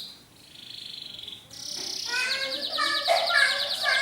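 Canary song: a high whistled note, then from about halfway a very fast, even trill with chirping notes below it.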